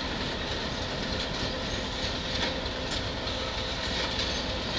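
Railroad cars rolling on the track: a steady rumble.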